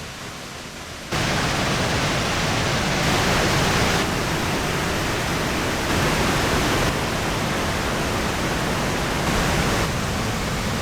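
Bond Falls waterfall rushing over rock ledges: a steady roar of falling water that gets louder about a second in.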